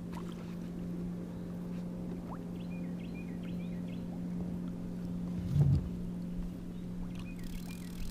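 Steady low hum from a kayak on the water, with a single knock about five and a half seconds in and a few short high chirps.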